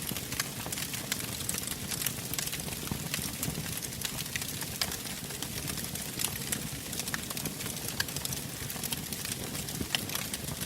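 Wood fire burning in a fireplace: a steady low rush of flames with frequent irregular sharp crackles and pops from the burning logs.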